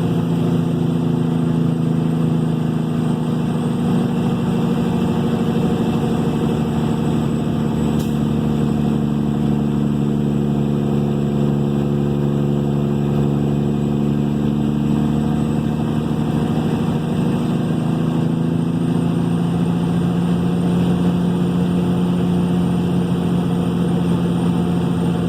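Cat 3406E inline-six diesel in a Kenworth W900 running steadily through 8-inch straight pipes as the truck drives, its pitch sagging slightly partway through and then coming back up.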